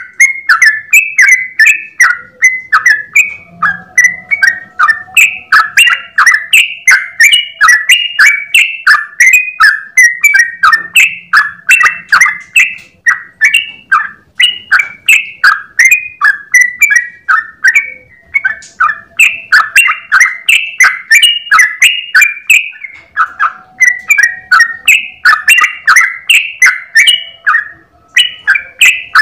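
Yellow-vented bulbul singing a fast, nonstop run of short chattering whistled notes, several a second, with a few brief breaks. This is the long unbroken song ('ropel') used as a master recording to teach other bulbuls.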